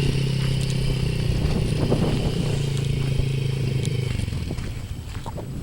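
Small kids' dirt bike engine running at a steady speed, fading away over the last second or so.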